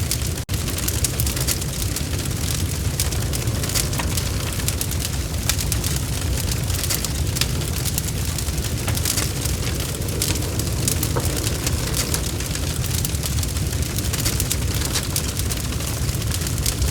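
Log fire in a fireplace burning, a steady low rumble with frequent sharp crackles and pops, and a momentary drop-out about half a second in.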